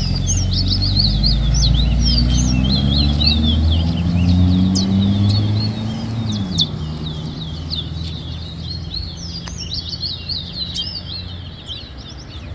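Caged songbird singing a rapid run of high chirping notes in a bird-song race. The song breaks off briefly about six seconds in, then resumes. An engine hums underneath, dropping in pitch and fading about six seconds in.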